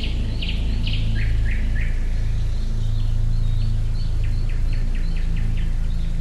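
Songbirds chirping, a string of short high chirps that quickens into a rapid run of strokes about two-thirds of the way through, over a steady low background.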